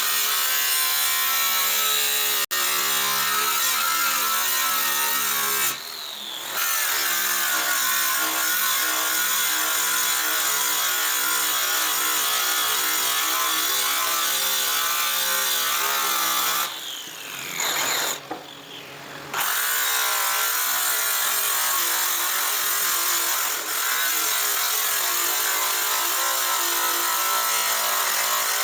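Electric polishing tool running steadily while buffing a metal exhaust pipe. It drops out briefly about six seconds in and again around seventeen seconds, its pitch falling as it slows, then spins back up.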